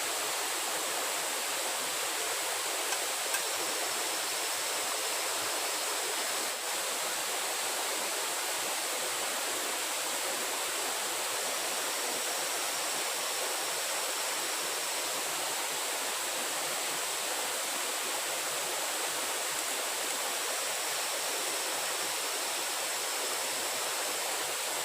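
Steady rushing of running water, with a faint, steady high-pitched tone over it.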